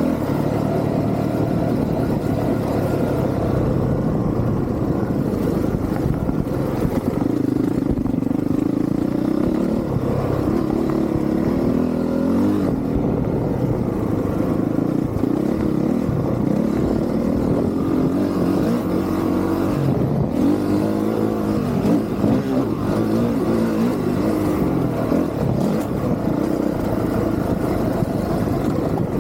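Honda CRF450R single-cylinder four-stroke dirt bike engine being ridden hard, its pitch rising and falling again and again as the throttle opens and shuts through the corners and straights.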